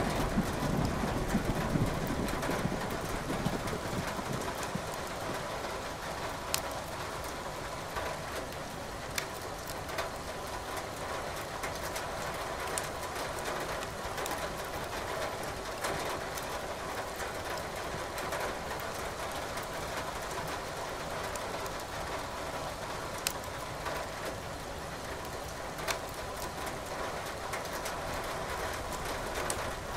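Steady rain falling, with a wood fire crackling in a fireplace and a few sharp pops every few seconds. A low roll of thunder dies away over the first few seconds.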